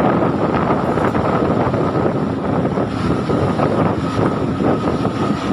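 A boat's engine running steadily under wind buffeting the microphone, with a faint steady whine above it.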